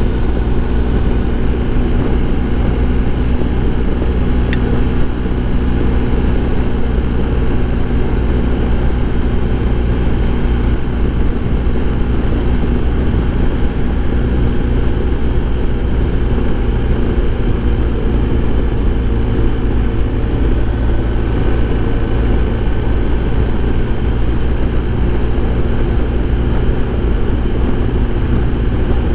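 BMW R1250 GS Adventure's 1250 boxer twin engine running at a steady cruise, its drone holding an even pitch.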